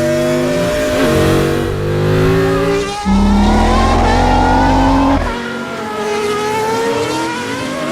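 Race car engine sound effect, the engine revving at high speed with its pitch gliding and stepping up about three seconds in, then easing off about two seconds later.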